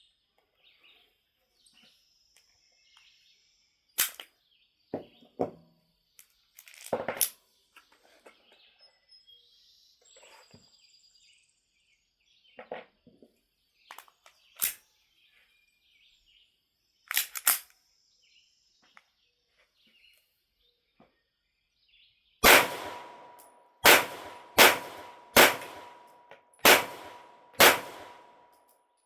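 Kimber CDS9 9mm pistol firing a string of about seven shots, roughly a second apart, starting about 22 seconds in, with a steady ringing tone lingering under the shots. Before that, only scattered light clicks and knocks.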